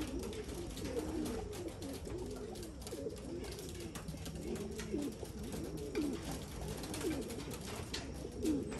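A flock of domestic racing pigeons cooing together, many overlapping low calls rising and falling without a break.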